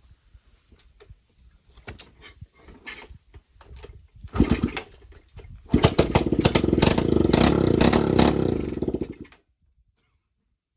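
Dirt bike engine, thought to be a 200, with no exhaust fitted, being started on starting fluid sprayed down the carburettor. After a few clicks and a short burst about four seconds in, it fires and runs loud and rapid-firing for about three and a half seconds, then cuts out suddenly.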